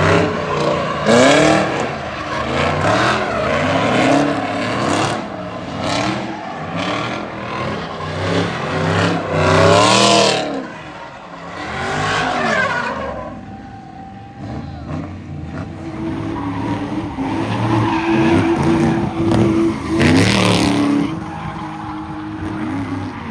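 Cars spinning in a car pit: engines revving up and down again and again, with tires squealing and skidding. The loudest bursts come about a second in, about halfway through and near the end, with a quieter spell in between.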